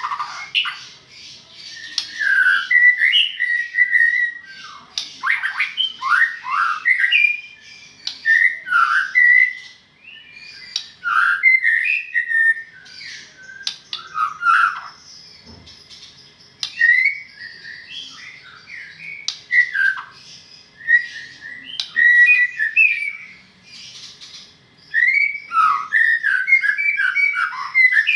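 White-rumped shama (murai batu) singing: a run of varied phrases of quick whistled notes sweeping up and down, mixed with harsher notes, in bursts a second or two long with short pauses between.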